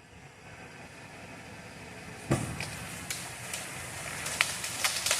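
A vehicle engine pulls a fallen, chained tree limb, with a sudden loud crack about two seconds in, then snapping and crackling of branches as the limb drags.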